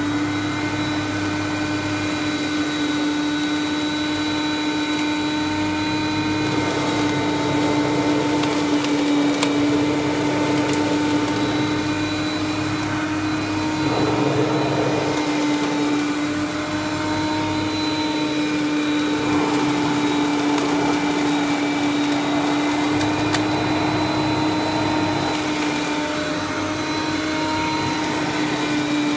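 Hoover Conquest bagged upright vacuum cleaner running with a steady pitched motor hum, with a gritty crackle of dirt and debris being sucked up. The crackle grows louder about halfway through.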